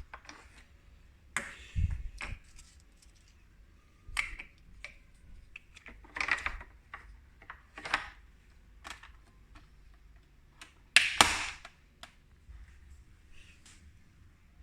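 Irregular clicks, taps and knocks of objects being handled, some with a brief rustle. There is a low thump about two seconds in and a louder double knock about eleven seconds in.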